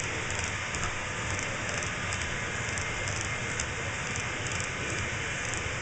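Freight train of stack and auto-rack cars rolling past, a steady rumble and rush of wheels on the rails with faint irregular high clicks.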